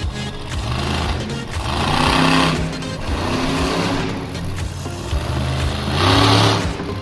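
Monster truck engine running and revving in two loud surges, about two seconds in and again near the end, with music playing underneath.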